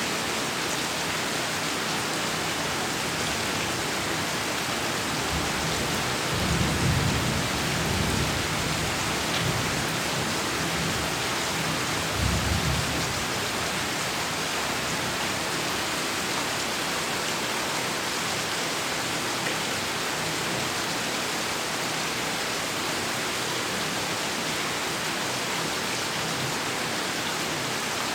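Heavy rain falling steadily, with thunder rumbling low twice, about six seconds in and again around twelve seconds.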